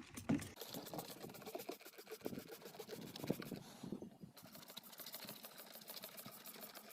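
Hand scrubbing of a truck's carpet after spraying it with cleaner: quick, repeated scratchy strokes.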